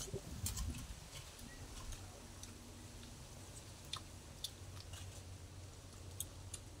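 People eating fish curry by hand and with spoons: faint chewing, with scattered short, sharp clicks.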